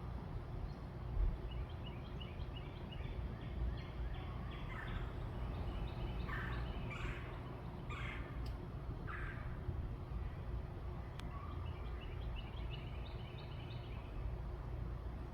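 Birds calling: a rapid chattering series of short high notes, then about four louder harsh calls that each drop in pitch, then more chattering near the end. A steady low rumble runs underneath.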